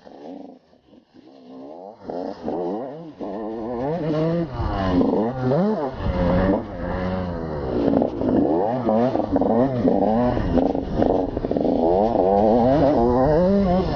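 Motocross bike engine revving, its pitch climbing and dropping again and again as it accelerates and shifts gear, getting louder over the first few seconds as it comes closer.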